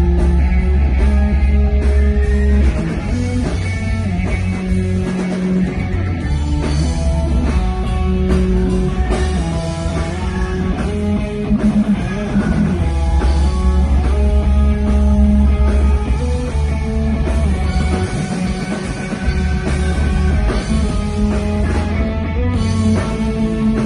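Live rock music: electric guitar with bass and drum kit playing an instrumental passage.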